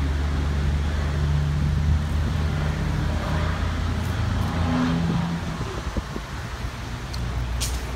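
A vehicle engine running: a steady low hum that weakens about five and a half seconds in, with a sharp click near the end.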